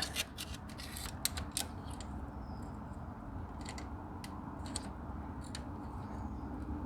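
Scattered small clicks and taps of hands and a tool working against the engine, a quick run of them in the first two seconds and a few more later, over a steady low hum.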